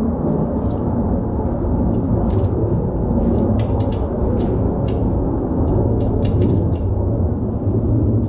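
A steady low rumble, like wind or a fan on the microphone, under irregular sharp metallic clicks and taps of a wrench working as a motor-mount bolt is tightened.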